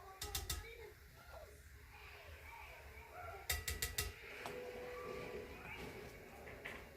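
Two quick runs of light, sharp clinking taps, four or five in each, from a measuring spoon knocking against a container while dry ingredients are measured out for batter.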